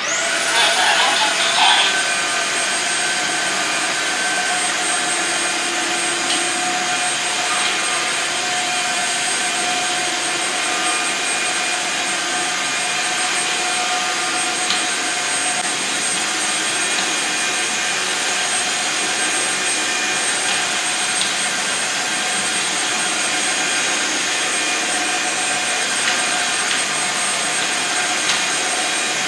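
Tineco S6 Floor One Stretch wet-dry floor cleaner running steadily: an even motor noise with a constant thin, high whine.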